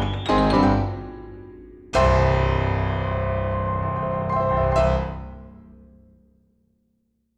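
Background piano music: a quick rising run of notes, then a full chord struck about two seconds in and another near five seconds, left to ring out and fade away.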